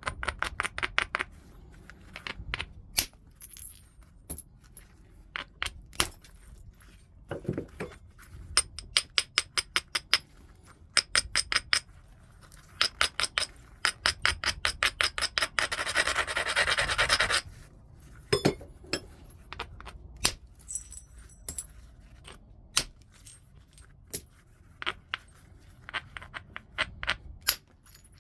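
Heat-treated Burlington chert being knapped: sharp single clicks of stone striking stone, and fast runs of clicks as the edge is scraped, with a longer steady scrape about sixteen seconds in.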